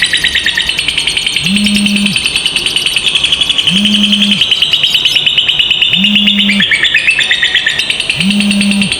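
Lovebird giving a long, unbroken ngekek: a rapid, high-pitched chattering trill with no pause. Beneath it, a low hum comes on for about half a second roughly every two seconds.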